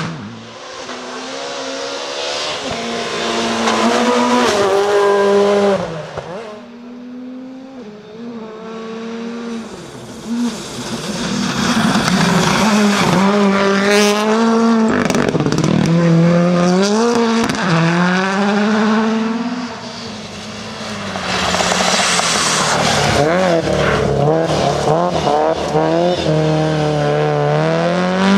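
Rally cars at full speed on a gravel stage, several in turn, engines revving hard and rising and falling in pitch through gear changes and lifts off the throttle. Each car builds up loud and falls away, about a second before 8 and again near 20 seconds in.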